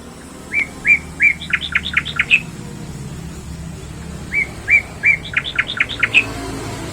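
A jalak tanah, a starling-type songbird, singing the same loud phrase twice: three rising whistled notes, then a quick run of about six sharp sweeping notes. The first phrase comes about half a second in, the second a little past four seconds.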